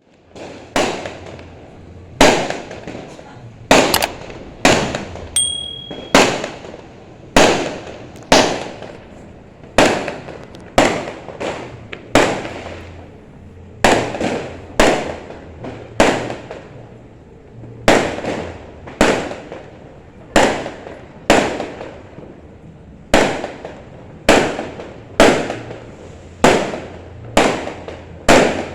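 Fireworks going off in a steady string, about one loud bang a second, each bang trailing off in a short fading echo.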